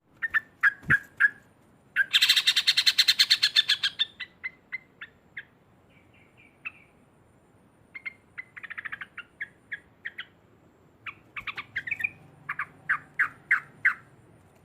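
Yellow-vented bulbul (trucuk) calling loudly: short sharp notes, then a fast rattling chatter about two seconds in and a shorter chatter midway, followed by a run of separate notes.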